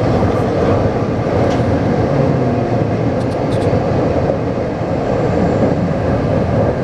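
Taipei Metro C381 train running, heard from inside the car: a steady rumble of wheels on rail and running gear, with a few faint clicks about three seconds in.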